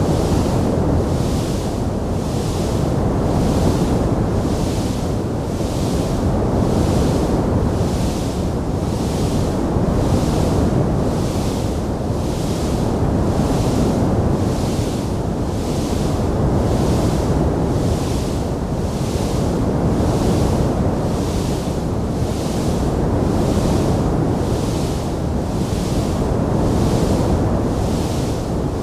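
Steady low roar of a wood fire burning in a stone fireplace, swelling and easing every couple of seconds, with no distinct crackles standing out.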